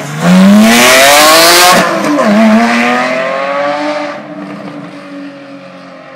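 2010 Porsche 911 GT3 RS's naturally aspirated flat-six accelerating hard past, the engine note climbing steeply, dipping briefly just after two seconds as it shifts up, then climbing again. The sound fades as the car pulls away.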